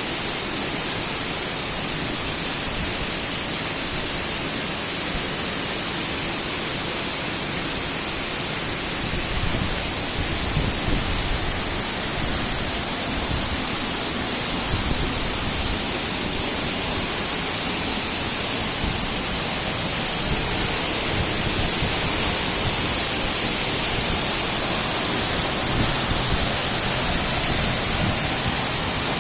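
Waterfall: falling water making a steady rushing noise that gets slightly louder about nine seconds in.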